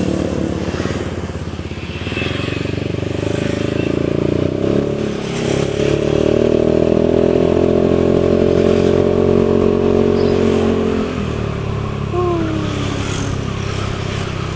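Yamaha Aerox 155 VVA scooter's single-cylinder engine and exhaust under way while riding. The engine note climbs about five seconds in, holds steady and loud for several seconds, then eases off about eleven seconds in. A short falling tone follows soon after.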